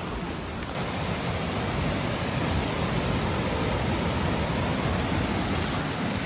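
Waterfall rushing: a steady, dense hiss of falling water with a low rumble underneath.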